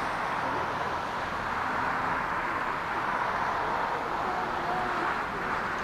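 Boeing 777-200ER jet engines giving a steady, even rushing noise.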